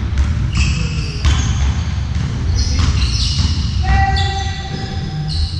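Ball game on an indoor court: a ball bouncing on the hall floor, with repeated short, high squeaks from shoes on the court and some voices in the background.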